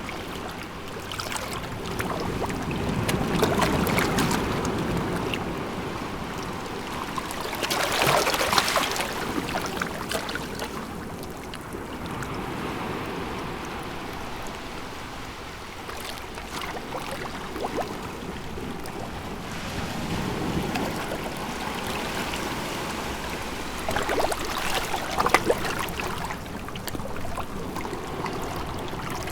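Sea waves washing ashore in several surges that swell and fade, with a crackling fizz of water at the peaks.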